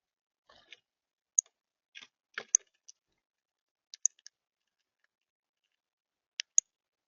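Birds feeding at a bird feeder: irregular sharp clicks and taps, likely beaks striking seed and the feeder, mixed with a few short scratchy rustles, spaced unevenly with gaps of up to two seconds.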